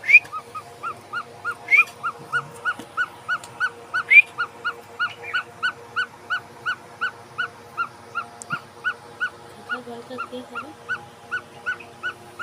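Baby bird begging while being hand-fed: a steady run of short chirps, about three a second, with a few louder rising calls in the first four seconds.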